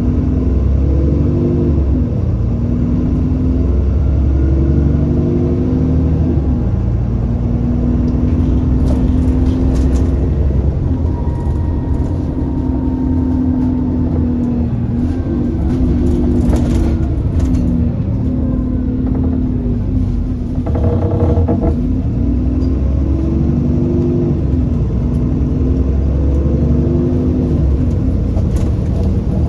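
Alexander Dennis Enviro400 double-decker bus's diesel engine heard from on board, pulling away and changing up through the gears several times, its pitch climbing and dropping with each shift. A few sharp knocks cut through the engine noise.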